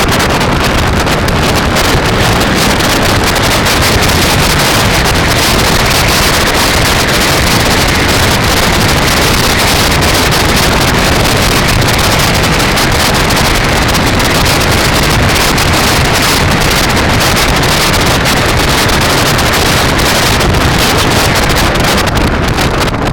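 Loud, steady wind noise buffeting the microphone while riding a bicycle.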